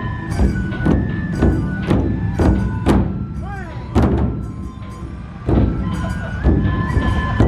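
Large Matsue dō festival drums beaten in a steady rhythm, about two strokes a second, with a flute holding a melody over them.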